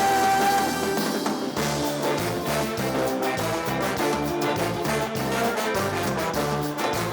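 Live band music with horns over a steady beat; a long held note ends under a second in.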